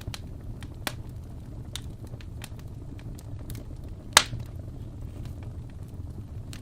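Wood fire crackling in a fireplace: scattered small pops over a low steady rumble, with a louder pop just under a second in and one loud snap about four seconds in.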